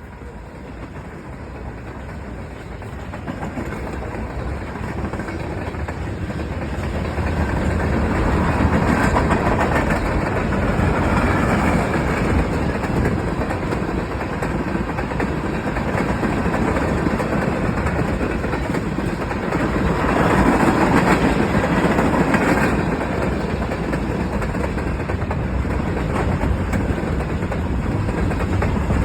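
BNSF train rolling past, a continuous rumble of wheels on rail that grows louder over the first several seconds and then holds steady.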